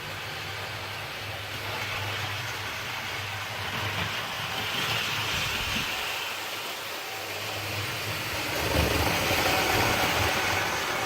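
Model railway locomotive running on the track: a steady electric-motor whirr and wheel noise, louder from about eight and a half seconds in.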